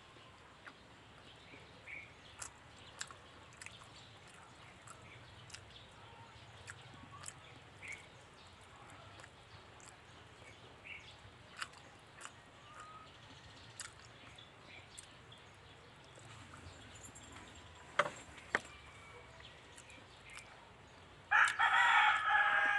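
A rooster crows once near the end, loud, over a quiet background dotted with small chirps and ticks. Two sharp clicks come a little earlier.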